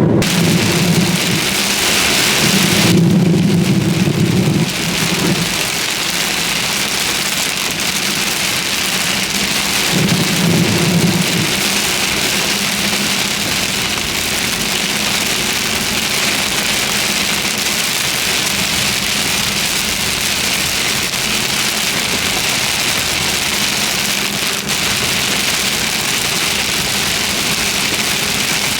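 Heavy rain falling steadily from a severe thunderstorm, with low rumbles of thunder at the start, again a couple of seconds in, and once more about ten seconds in.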